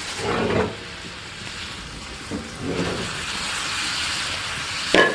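Pot of pork tripe hot pot sizzling and hissing over a strong wood fire, the hiss growing louder in the second half. A sharp clink comes near the end.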